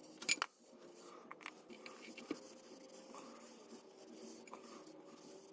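Faint scraping and wiping of a rag or brush on the clutch flywheel as it is cleaned with degreaser, with a few sharp clicks and knocks, the loudest just after the start.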